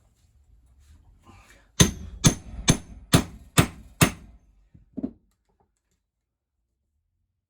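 Hammer striking an eyelet setting punch six times in quick succession, about two blows a second, followed by a softer knock: a metal eyelet ring being set into fabric, hit hard enough that the ring isn't loose.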